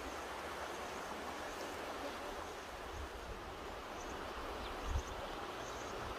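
Mountain river rushing steadily over its bed, with a few brief low buffets of wind on the microphone about three and five seconds in.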